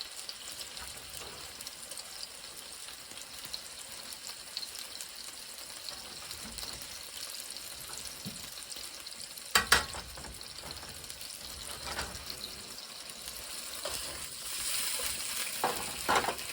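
Chicken and Brussels sprouts sizzling in a frying pan as they sauté, a steady hiss. A few sharp clanks of a utensil against the pan cut through it, the loudest two about ten seconds in and two more near the end.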